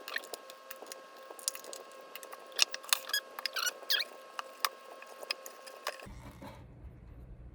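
Irregular small metallic clicks, taps and rattles of a Phillips screwdriver and loose screws as the speaker cabinet is taken apart. About six seconds in the sound cuts abruptly to a low steady hum.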